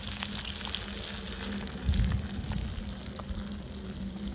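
Fish frying in hot oil, with a continuous crackling sizzle that grows fainter near the end. A dull low thump comes about two seconds in.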